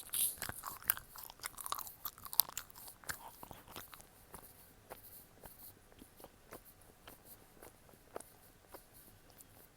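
Close-up chewing of gummy candy: a run of quick mouth clicks and smacks, dense over the first few seconds and then thinning out to scattered clicks.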